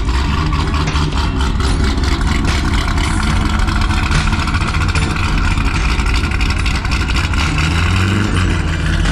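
Car engine running loud, with a rise in pitch near the end as it is revved.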